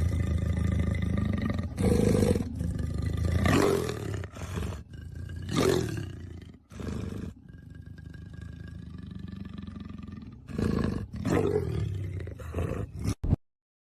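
An animal calling loudly several times over a low steady hum. The sound cuts off abruptly near the end.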